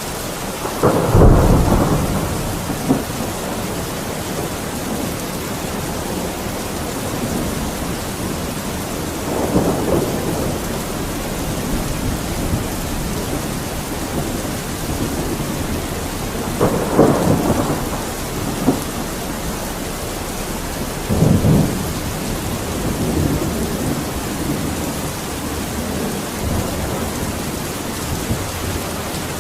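Steady heavy rain with rolling thunder. The loudest roll comes about a second in, and weaker rumbles follow three more times.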